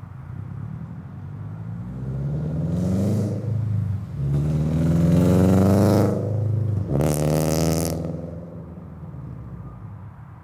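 2022 Subaru BRZ with a catless front pipe, Tomei unequal-length headers and a Greddy RS exhaust accelerating hard past, its 2.4-litre flat-four revving up through the gears. The revs climb, drop at a shift and climb again twice, loudest around the middle, then the sound fades as the car drives away.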